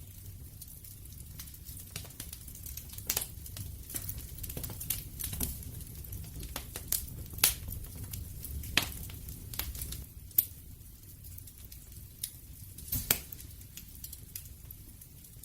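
Wood fire crackling: irregular sharp pops over a low, steady rumble of the flames, with a few louder pops between about seven and thirteen seconds in.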